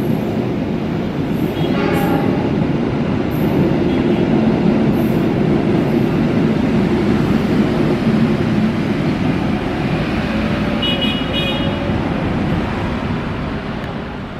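Locomotive-hauled passenger train running through the station at speed, a steady loud rumble of wheels on rail that fades near the end. A brief horn toot sounds about two seconds in, and a short high tone about eleven seconds in.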